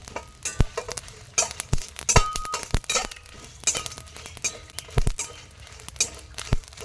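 Kitchenware clinking and knocking while ingredients are handled: a string of sharp, irregular clinks, some with a short ring like glass or ceramic dishes touching.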